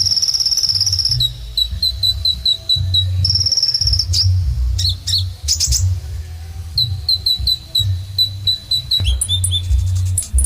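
Kolibri ninja sunbird singing: runs of quick, high chirps, several a second, broken by rapid buzzy trills, over a steady low rumble.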